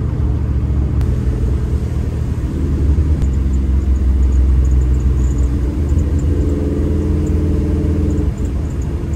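1955 Chevy Bel Air's 383 V8 pulling under throttle, heard from inside the cabin along with road noise. It grows louder a few seconds in, then eases off suddenly near the end.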